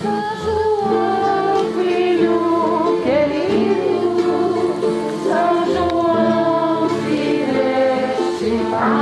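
A group of voices singing a song together over steady, sustained accompaniment chords.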